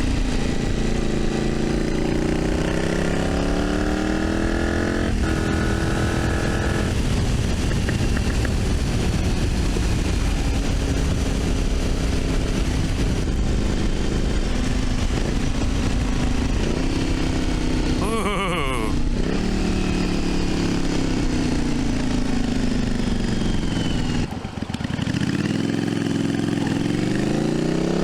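1982 Yamaha Virago XV750's V-twin engine on the road, revving up through its short gears with shifts about five and seven seconds in. The engine then eases off through the middle, drops away briefly near the end, and revs up again, with wind noise on the microphone throughout.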